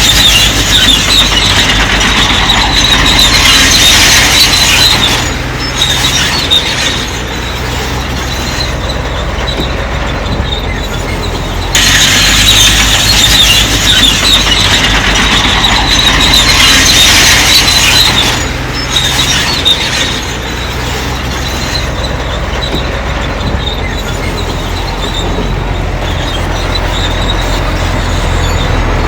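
Crawler bulldozer at work: its diesel engine runs steadily underneath while the steel tracks squeal and clatter. The track noise comes in two long loud spells, about five seconds at the start and again from about twelve to eighteen seconds in, with the engine alone between them.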